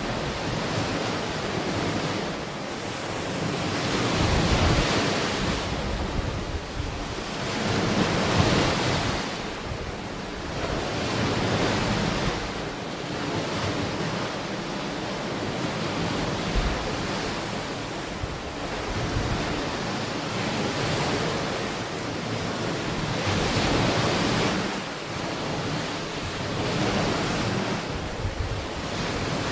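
Sea waves breaking and washing onto the shore: a steady rushing noise that swells and fades every few seconds.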